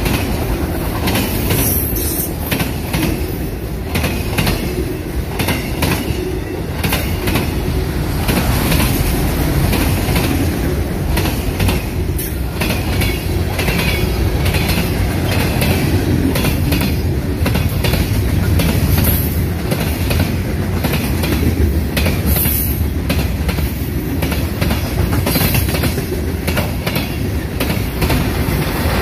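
Long freight train of autoracks, covered hoppers and boxcars rolling past close by: a steady heavy rumble of the cars, with the wheels clicking over the rail joints again and again.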